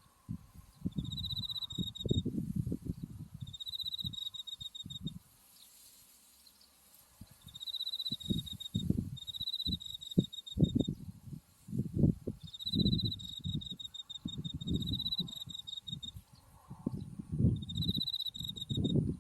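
Autumn crickets chirping in short, finely pulsed trills, repeated every second or two. Irregular low rumbling on the microphone runs underneath, louder than the chirps, and drops away for a couple of seconds near the middle.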